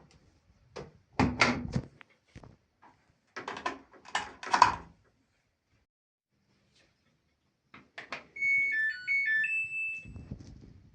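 Several loud knocks and thumps in the first five seconds, then the Samsung Eco Bubble washing machine's control panel plays a short electronic melody of beeps at stepped pitches, about eight seconds in, followed by a low rumble.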